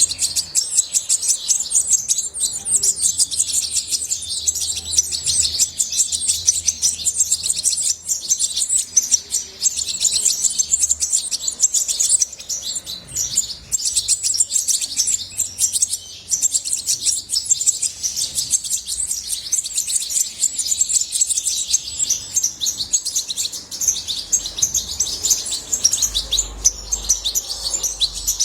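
European goldfinch singing: a fast, continuous run of high twittering notes and trills without a break.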